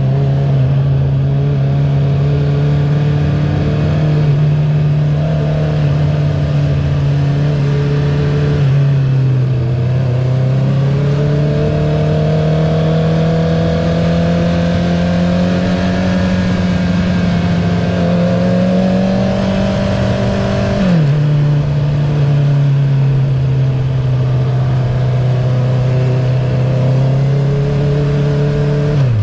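2021 Honda CB650R inline-four running through an Akrapovic titanium full-system racing exhaust with the dB killer removed, heard from on the bike while riding. The engine note holds steady, dips about ten seconds in, then climbs slowly for about ten seconds before falling sharply, and drops again at the very end.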